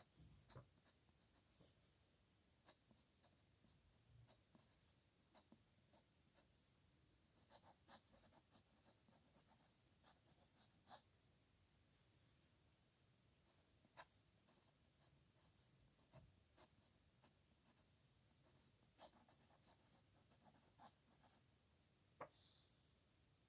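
Faint pen-on-paper writing: quick, irregular scratchy strokes and small taps as signatures are written out.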